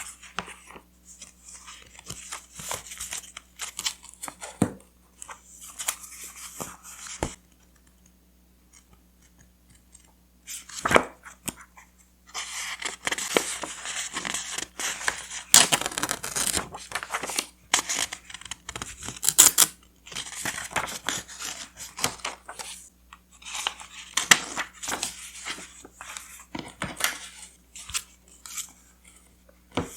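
Scrapbook paper being handled and torn: irregular paper rustling and tearing with small taps and clicks, a short quiet pause about eight seconds in, then a long dense stretch of rustling.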